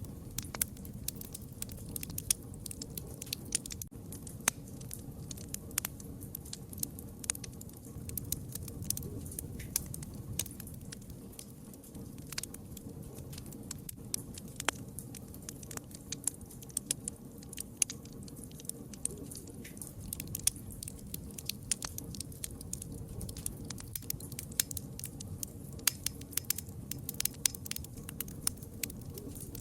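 Fire crackling, with many sharp, irregular pops over a low steady rumble of the flames.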